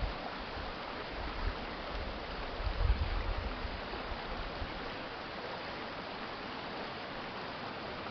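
Urban stream flowing steadily, a constant rush of water. A low rumble runs under it for the first few seconds, loudest about three seconds in.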